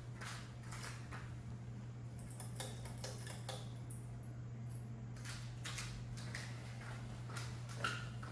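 Hunter ceiling fan running on its low speed: a steady motor hum with light, irregular ticking clicks over it.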